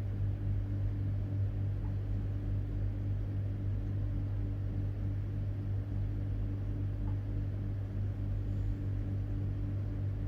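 A steady low hum, like a motor or electrical appliance running. It stops abruptly near the end.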